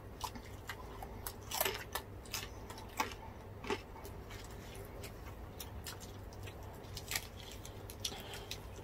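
Close-up eating sounds: irregular sharp crunches and crackles of chewing crispy deep-fried pork skin (bagnet and crispy pata), a few louder crunches among many small clicks.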